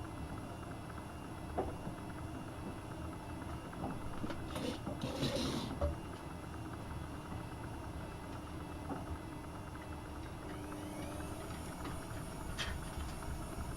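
AEG Öko-Lavamat 72520 washing machine running a boil wash, its drum motor turning with a steady low drone. There is a short rush of noise about five seconds in and a single click near the end.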